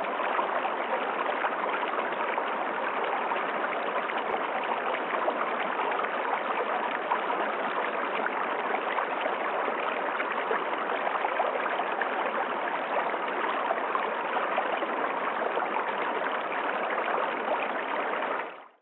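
River water rushing and burbling steadily over rocks, fading out at the very end.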